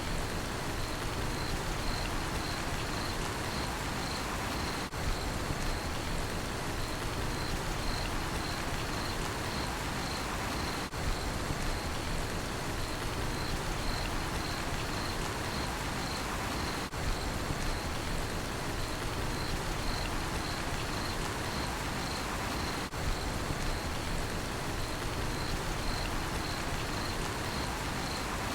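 Steady rain falling, with a cricket chirping evenly at a high pitch, about two chirps a second. The level dips briefly about every six seconds.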